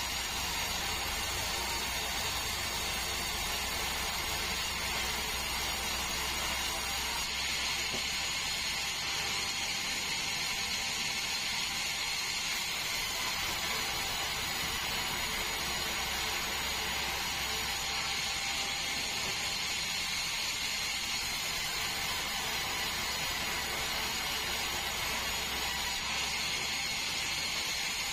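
A sawmill bandsaw running steadily through a large meranti log: an even low hum under a hiss, with a steady high whine.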